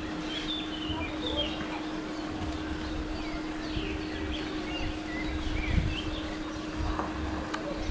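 Birds chirping and singing: many short, high chirps scattered throughout, over a steady low hum and some uneven low rumbling.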